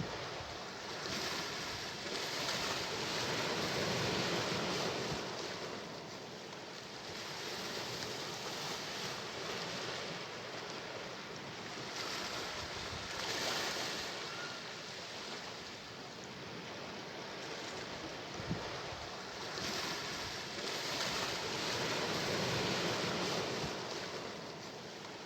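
Sea waves washing in, the surf swelling and falling back in slow surges several seconds apart. A brief low knock comes about two-thirds of the way through.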